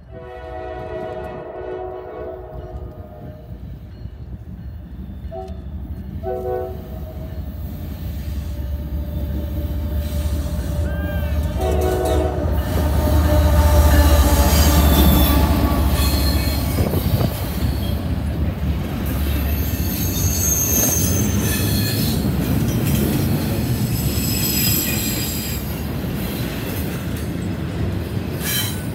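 A CSX diesel freight locomotive's horn sounds one long blast, then shorter blasts, as the train approaches. The locomotive then passes close with a loud low engine rumble about halfway through, followed by double-stack container cars rolling by with high wheel squeal and clacking.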